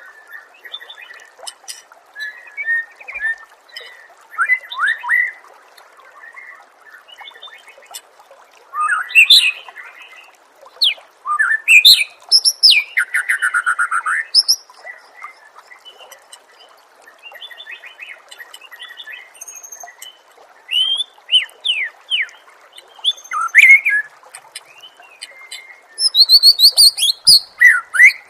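Songbird song from a masteran training recording for cage birds such as the white-rumped shama: a varied run of whistled phrases, quick trills and chatter in loud spells with quieter gaps, over a steady hiss.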